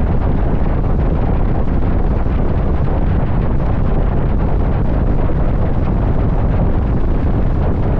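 Loud, steady wind buffeting the microphone on a motorcycle at highway speed, with the rush of the ride beneath it.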